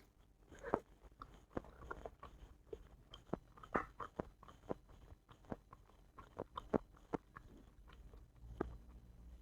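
A person chewing food close to the microphone, with irregular wet mouth smacks and clicks, about two a second.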